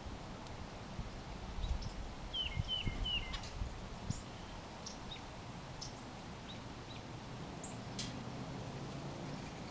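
Small birds chirping: a quick run of three short falling notes about two and a half seconds in, then scattered brief high chirps, over a low outdoor rumble with a few soft thumps early on.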